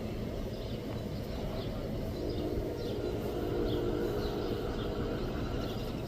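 Outdoor ambience: a steady low rumble with small birds chirping. About two seconds in, a steady pitched drone, like a distant train, comes in and fades out about three seconds later.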